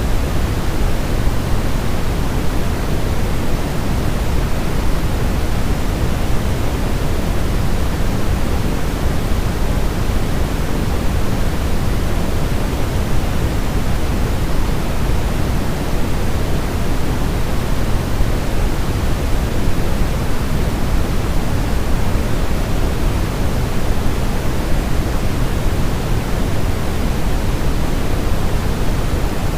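Continuous baby-sleep white noise, an even, steady hiss without a beat or tone, weighted toward the low end like pink noise, the kind used to imitate the sound of the womb.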